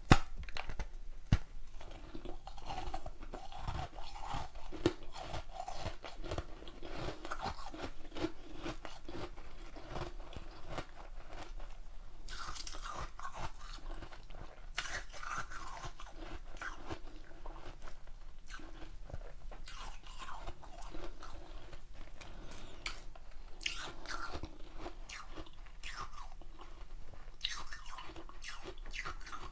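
A person biting into and chewing hard ice close to the microphone: a dense run of sharp crunches and cracks, with a loud bite right at the start and another about a second later.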